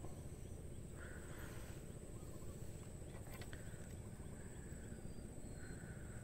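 Faint outdoor background: a steady low rumble with a thin, continuous high-pitched hum, a few soft clicks and faint brief higher sounds.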